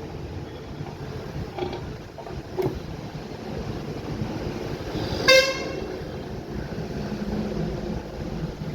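A single short vehicle horn toot about five seconds in, over steady background noise, with a couple of faint knocks earlier on.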